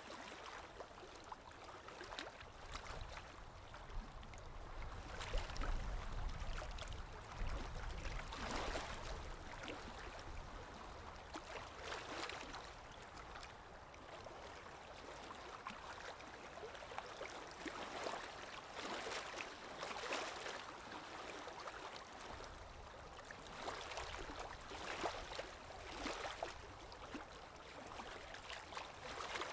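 Stream water flowing and gurgling, with uneven louder surges of splashing every few seconds and a low rumble for a few seconds near the start.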